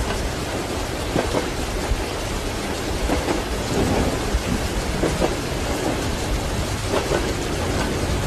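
Steady rain with thunder rumbling at a constant level throughout.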